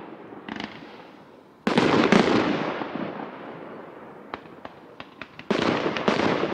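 Aerial fireworks bursting: a loud bang about a second and a half in and another near the end, each dying away over a second or two, with a few sharp single cracks between them.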